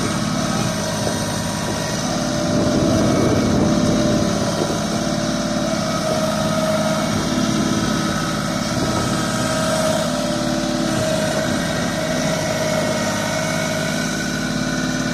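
Tractor engine running steadily, with a slight rise in level a few seconds in.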